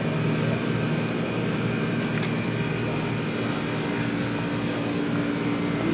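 Steady mechanical hum and rush of air from a store's refrigerated display coolers and ventilation, with a second, higher hum tone joining about halfway through.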